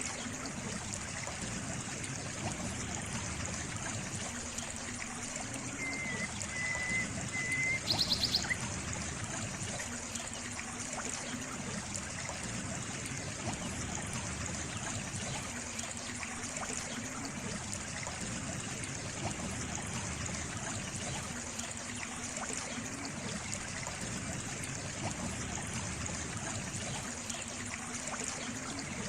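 Water trickling steadily, like a small stream. A short, high-pitched chirp stands out about eight seconds in.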